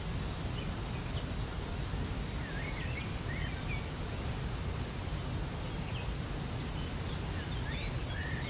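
Steady rush of a waterfall, with small birds chirping over it in many short, quick calls.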